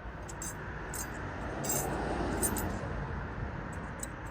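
Light metallic clinks from tools and brake parts being handled, over a rushing noise that swells and fades about two seconds in.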